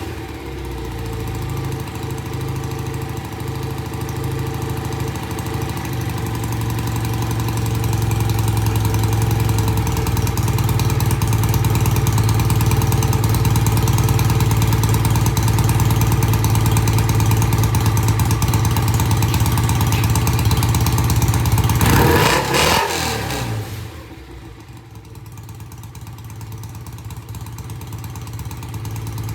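BSA A65 parallel-twin engine running on freshly cleaned Amal Premier carburettors, holding a steady fast idle. Near the end a quick throttle blip rises and falls, and it settles to a slower, quieter idle.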